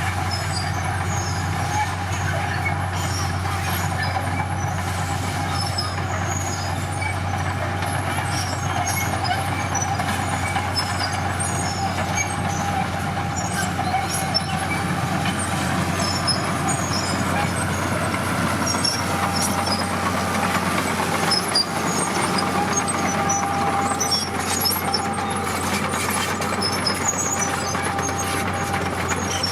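Heavy diesel construction machinery running steadily at work, with a low engine drone, a thin steady whine and scattered small clicks.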